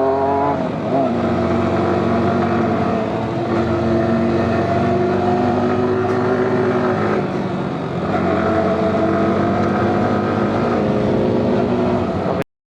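Sport motorcycle engine running at high revs, its pitch shifting with the throttle: it eases off about half a second in, holds fairly steady, dips around seven to eight seconds in, then picks up again before cutting off suddenly near the end.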